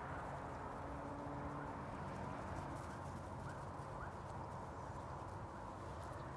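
Faint outdoor yard ambience: a steady low hum, with two short, faint rising bird chirps about three and a half seconds in.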